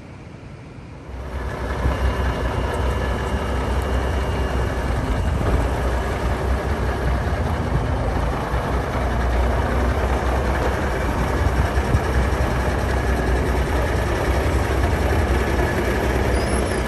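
Heavy diesel truck engine, the 1963 Kenworth's Cummins Big Cam 400, running loud with a strong low rumble. It comes up sharply about a second in and then holds steady.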